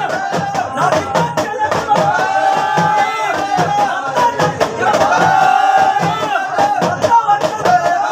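Folk devotional song from an akhada singing party: a male singer's sung line carried over percussion keeping a steady, even beat.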